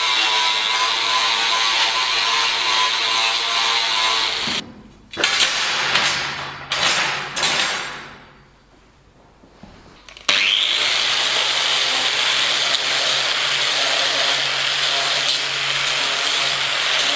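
Continuous harsh metalworking tool noise with a steady buzz. It cuts off abruptly about four and a half seconds in, gives a few short bursts, and then starts again abruptly at full level after a quieter gap of about two seconds.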